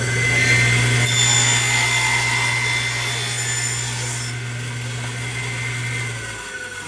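Power tool running steadily on a wood floor register, then switched off near the end, its whine falling slowly as it winds down.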